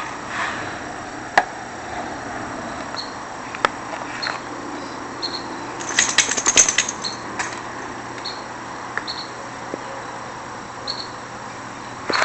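Short, high chirps from an unidentified bird, repeated irregularly every second or two. Scattered sharp clicks are heard, with a louder burst of rapid clicking about six seconds in.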